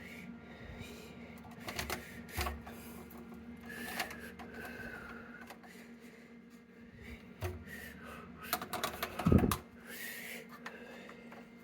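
Plastic sink drain pipes and slip nuts clicking and knocking as they are handled and screwed together by hand, with a louder thump about nine seconds in.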